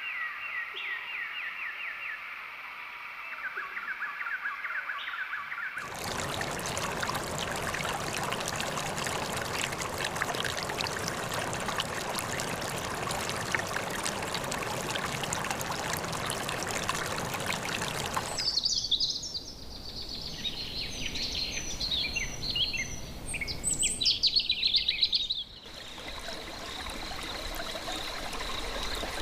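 Outdoor nature sounds in abrupt segments: rapid, repeated chirping calls at first, then about twelve seconds of rushing water, then birds singing. A steady high tone over faint noise near the end.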